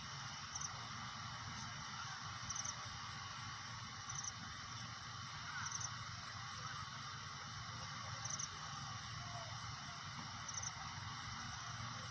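Faint high-pitched chirps, two or three quick pulses at a time, repeating every two seconds or so over a steady background hiss.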